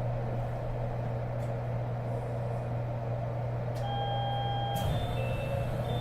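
Steady low hum of the Kobe New Transit 2020-series Port Liner car standing at the platform with its heater running. About four seconds in, the door chime starts sounding in clear electronic tones, with a click about a second later. The chime warns that the doors are about to close.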